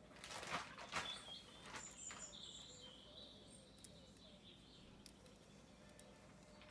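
Birds chirping faintly in the background, with short high calls through the first few seconds. Two brief soft knocks or rustles about half a second and a second in.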